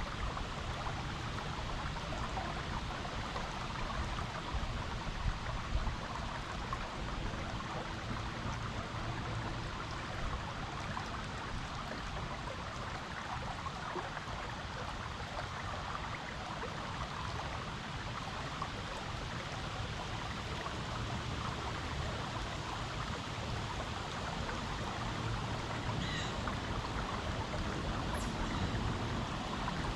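Creek water flowing steadily over rocks.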